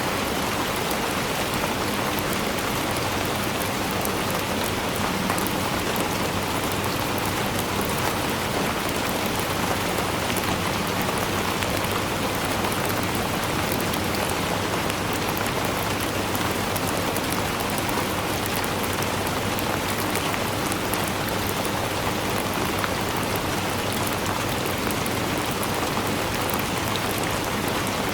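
Steady rain falling and pattering on a surface, a dense even hiss full of tiny drop ticks, with no thunder or change in strength.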